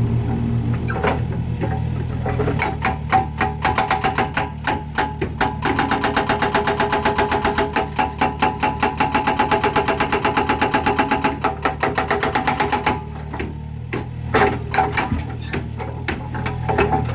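Mini excavator's hydraulic breaker hammering concrete: a rapid, even run of ringing metallic blows, several a second, over the excavator's running engine. The blows stop about 13 s in, then come back as a few scattered strikes.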